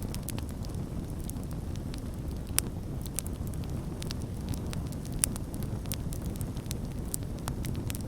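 Campfire burning with a steady low rumble and scattered sharp crackles and pops, two louder pops about two and a half and five seconds in.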